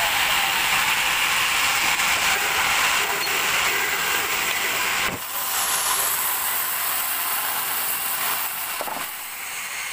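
Band sawmill cutting a teak log: a steady, loud hiss with a sharp knock about five seconds in.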